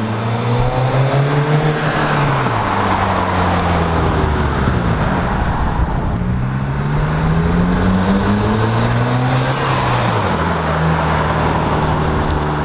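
2017 Subaru WRX's turbocharged flat-four, breathing through a Cobb Big SF intake and Tomei catback exhaust, with the engine note rising and falling twice, then holding steady near the end. A steady hiss of intake and air noise runs above the engine tone.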